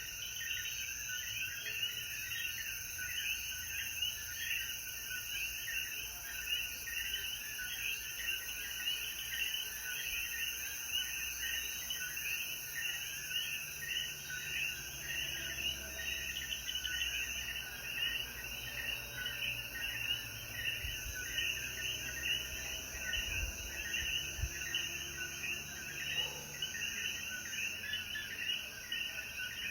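Chorus of Puerto Rican coquí frogs, many overlapping short calls repeating densely, over a steady high insect hiss.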